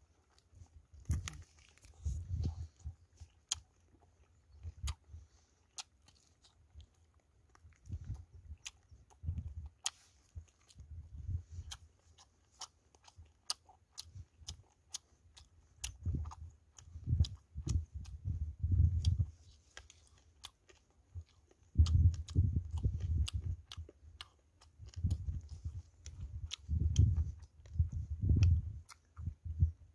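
Close-up chewing and lip-smacking of a person eating roasted chicken by hand: irregular wet mouth clicks and bouts of munching, heavier in the second half.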